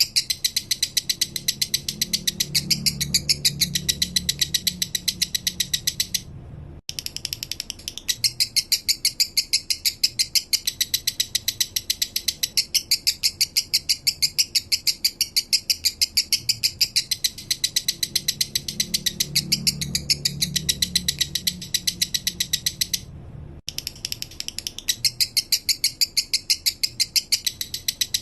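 Male lovebird singing the fast, thin 'minor' song style: a continuous run of sharp ticking notes, about ten a second, broken by two brief pauses.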